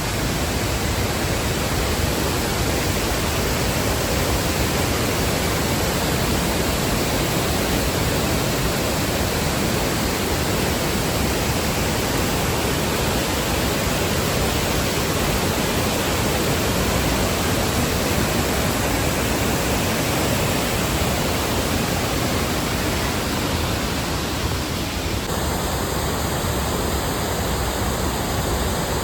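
Large waterfall pouring: a loud, steady rush of falling water, its tone shifting slightly about 25 seconds in.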